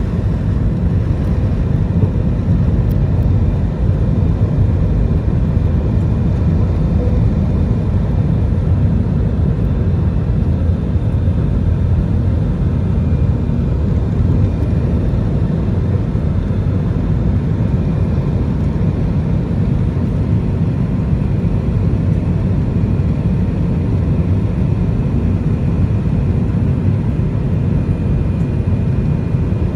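Jet airliner's engines running steadily at high thrust during takeoff: a loud, even rumble with faint steady whine tones above it.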